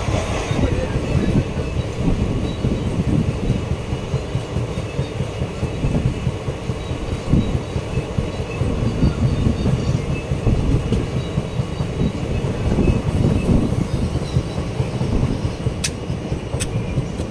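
Passenger train coach running along the track, heard from its open doorway: a steady rumble and rattle of wheels and coach body with irregular knocks. Two sharp clicks come near the end.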